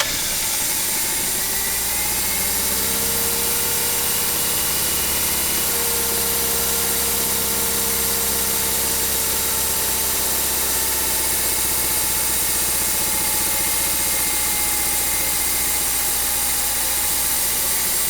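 Toyota Corolla four-cylinder engine idling steadily just after starting, with a strong hiss over it. The hiss is an air leak from a fuel injector that is not seated properly after being swapped.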